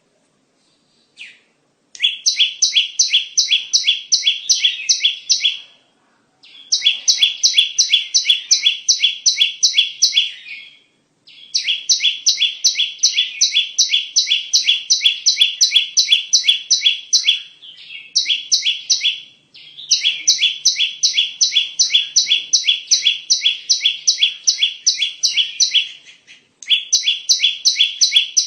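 Bar-winged prinia (ciblek) calling: fast runs of repeated high chirps, about four to five a second, in bursts of several seconds with short pauses between.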